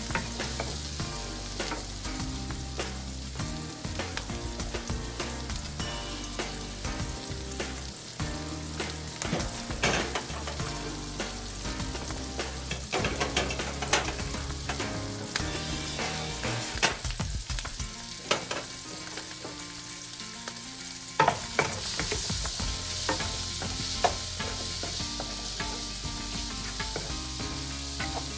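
Diced onion with turmeric sizzling in hot oil in a nonstick wok, while a wooden spatula stirs it with frequent scrapes and knocks against the pan. The onion is at the early frying stage, being cooked until brown.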